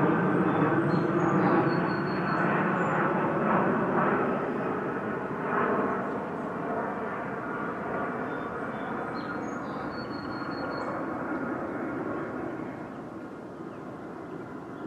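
Drone of an airplane passing overhead, fading away over the last few seconds. Songbirds chirp briefly above it twice.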